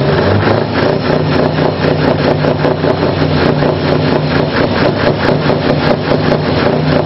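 Scania R580's 16-litre V8 idling steadily through twin exhausts.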